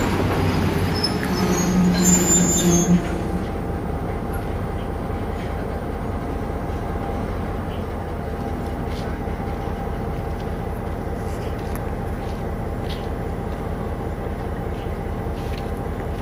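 Passenger train rolling slowly into the station. In the first three seconds there is a louder rumble with short high wheel squeals, then it settles into a steady low rumble as the train creeps along.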